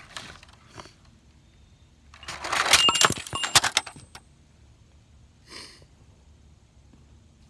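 Weighted RC truck driving into a small toy car: a loud clattering burst of plastic rattles and sharp clicks lasting about two seconds. A short faint hiss follows a couple of seconds later.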